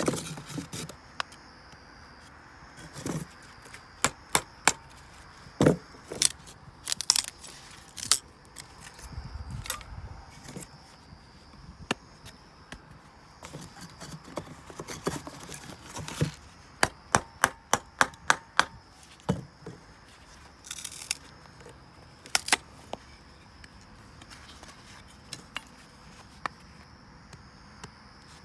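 Firewood being handled and broken for a campfire: irregular sharp wooden knocks and cracks, with a quick run of them about halfway through.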